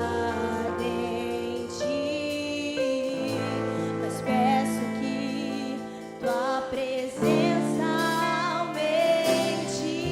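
Slow worship song: held keyboard chords that change every second or two, with a singing voice carrying the melody over them.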